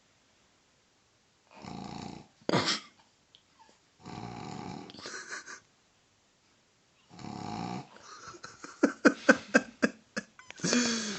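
Pug snoring loudly in its sleep, a rasping breath every two to three seconds. Near the end comes a quick run of sharp, loud snorts.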